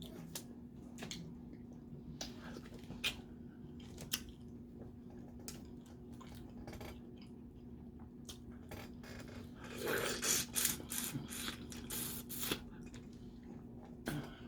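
Crawfish being eaten: scattered clicks and cracks of shells being broken and peeled, with a busier, louder stretch of cracking and chewing about ten seconds in, over a steady low hum.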